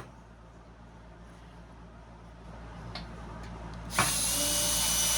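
Power drill starts suddenly about four seconds in and runs at a steady speed, driving out fasteners while a radial arm saw is taken apart. A light click comes at the start, and before the drill there is only quiet handling noise.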